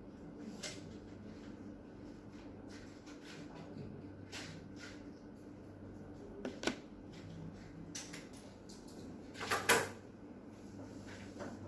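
Small clicks and taps of tools and watch parts being handled at a workbench, with a sharper tap about six and a half seconds in and a louder cluster of clicks near the end, over a faint steady hum.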